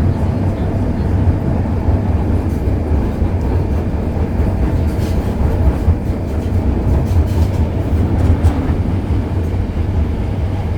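MTR Kwun Tong Line M-Train running, a steady low rumble with a few faint clicks from the wheels.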